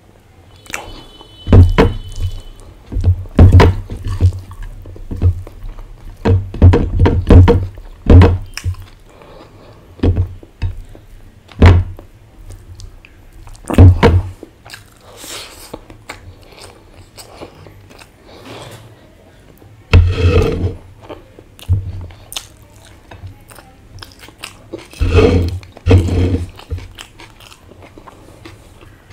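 Close-miked eating sounds: a person chewing a full mouthful of rice and curry, heard as a series of irregular, heavy low thumps. They come thick and fast at first and grow sparser, with a couple of longer, fuller mouth sounds later on.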